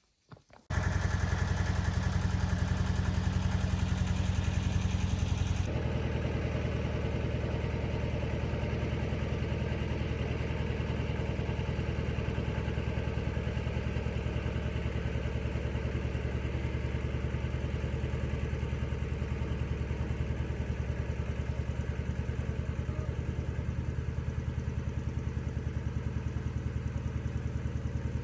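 A heavy vehicle engine running steadily with an even pulse. It starts abruptly about a second in, and its sound changes abruptly about six seconds in, then holds steady.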